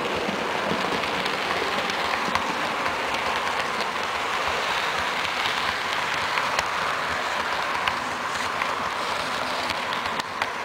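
HO-scale electric model train running on the layout's track: a steady whir of motor and wheels on the rails, with scattered light clicks.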